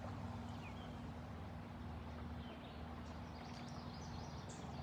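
Quiet outdoor ambience: a steady low hum, with a few faint, short bird chirps, more of them in the second half.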